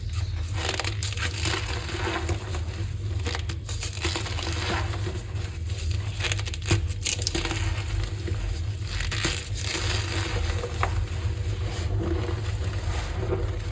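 Blocks of gym chalk being crushed, a continuous crumbling crunch with many small crackles.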